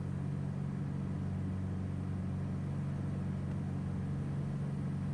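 Twin piston engines and propellers of a Cessna 421B droning steadily in the cabin on short final approach, with an even hum and no change in pitch.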